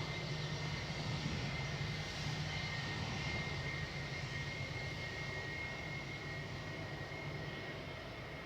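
Distant airliner engines running with a steady low drone and a thin high whine, easing off a little toward the end.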